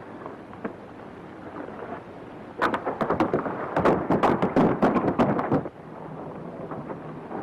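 A loud burst of crashing and clattering: many sharp knocks close together for about three seconds, starting a few seconds in and stopping suddenly, over a low steady background.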